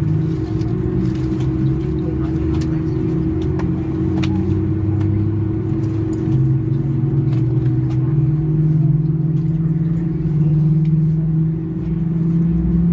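Airbus A330-300 jet engine starting, heard inside the cabin: a low hum that rises in pitch about halfway through as the engine spools up, over a steady drone, with a few faint clicks.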